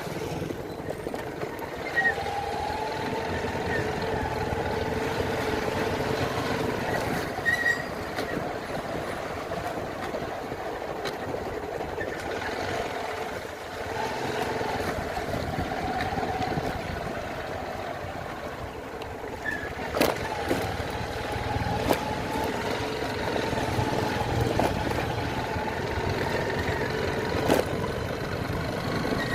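Motorcycle engine running while riding, its pitch slowly rising and falling with the throttle. A few sharp knocks sound over it in the second half.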